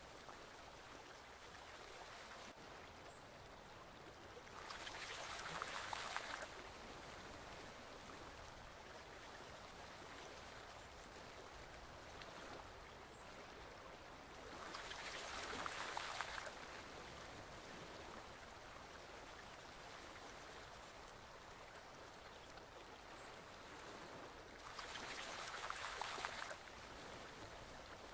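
Forest stream flowing with a steady rush of water, swelling louder three times, about ten seconds apart.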